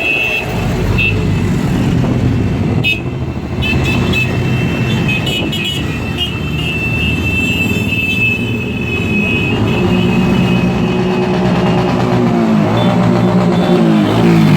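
Motorcycle engines running, with a high steady tone sounding through the first half. Near the end, an engine revs up.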